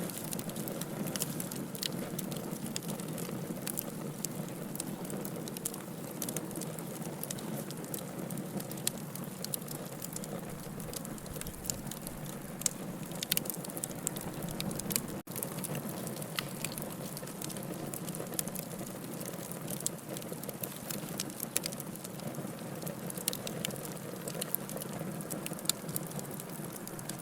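Wood campfire burning with continual crackling and frequent sharp pops over a steady hiss. There is a momentary break in the sound about fifteen seconds in.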